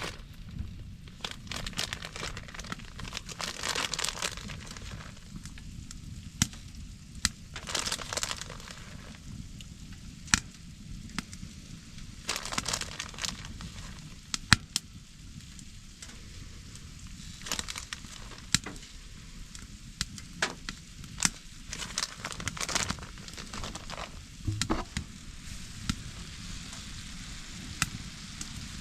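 Food frying in a pan: a low sizzle with scattered sharp clicks and short rustling bursts of handling and stirring.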